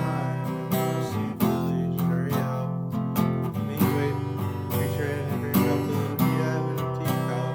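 A song played on strummed acoustic guitar, with steady chords.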